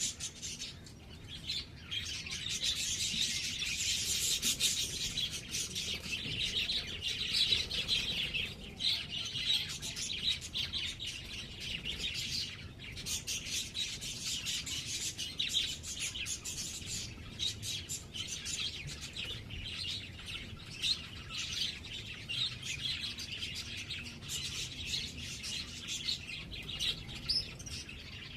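Small birds chirping and twittering in a rapid, continuous stream of high-pitched calls, busiest about a few seconds in.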